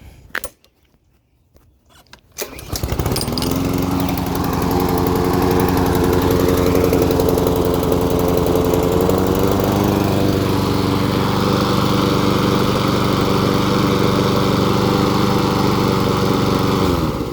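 Walk-behind lawn mower's small engine, set on choke, starting about two and a half seconds in and running at a steady speed, then cut off abruptly near the end. It runs just fine.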